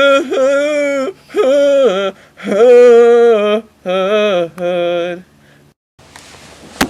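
A voice singing a wordless tune in several held notes with wavering pitch, stopping about five seconds in; a sharp knock on a door comes at the very end.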